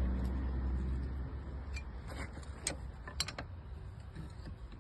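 A low vehicle rumble that fades over the first second or so, followed by scattered light metallic clicks and clinks of tools and parts being handled during the brake job.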